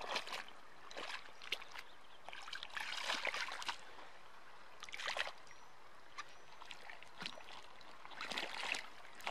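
Feet sloshing and being rinsed in a rain-swollen creek: irregular water splashes every second or so over a faint steady trickle of running water.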